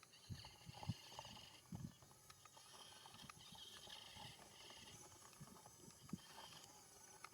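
Faint insect chirping, in pulsing trains, with scattered soft low knocks.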